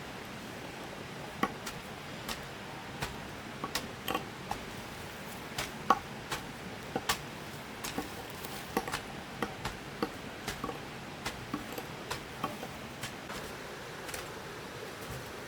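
Irregular light knocks and clicks, two or three a second, from hand work, over a steady hiss.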